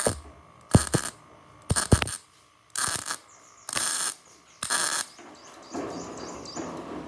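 Five short rasping strokes, about one a second, each starting with a sharp click, followed by a softer steady rustle near the end.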